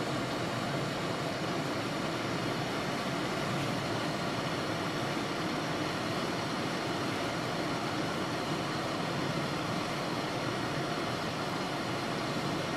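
Steady road noise inside a car's cabin while driving on a snow-covered road: engine and tyre noise with an even hiss.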